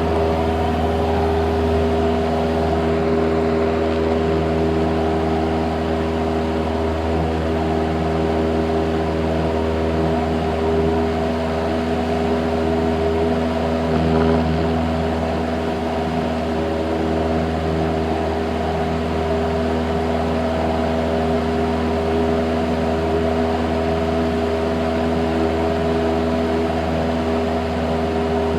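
Cessna 172's piston engine and propeller droning steadily at constant power, with no change in pitch.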